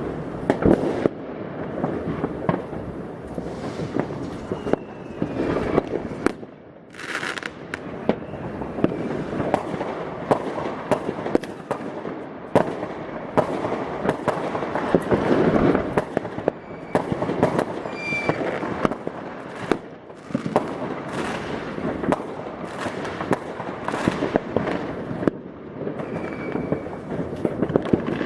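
Many fireworks and firecrackers going off at once: a continuous barrage of bangs and crackling, with a few brief whistles.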